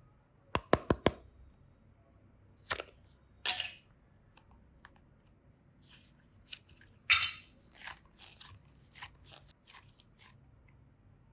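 Close-up handling of modelling clay and slime. There are four sharp clicks or taps soon after the start, then short scraping, rustling bursts at about 3 and 3.5 s and a louder one about 7 s in, with scattered light clicks between.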